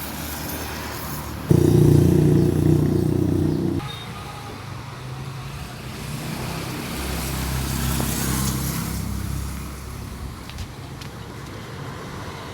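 Road traffic: a motor vehicle engine runs loudly close by from about a second and a half in until about four seconds, then another engine swells and fades around eight seconds in.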